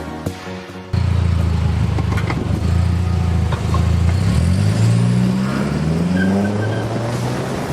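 Car engine running loud, cutting in abruptly about a second in; its pitch climbs steadily for a couple of seconds as it accelerates, then drops back near the end.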